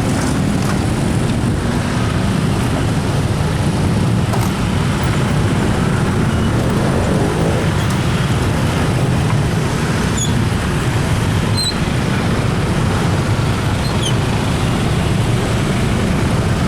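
Train passing at speed, a steady low rumble of wheels on the rails.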